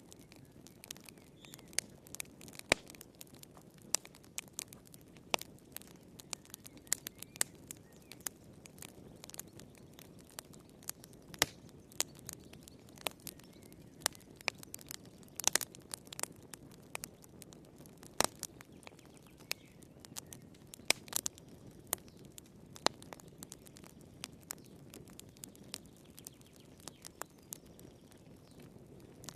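Wood fire crackling in a fireplace: irregular sharp pops and snaps, some louder than others, over a soft low rush.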